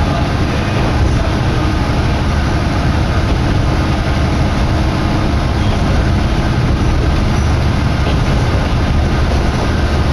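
Kominato Railway diesel railcar running steadily along the line, heard from inside the car as a continuous low rumble of engine and wheels, with wind coming in through the open window.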